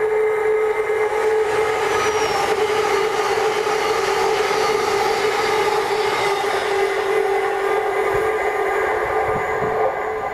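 LNER Azuma high-speed train passing at speed: a rushing rail noise over a steady whine that swells through the middle and eases near the end.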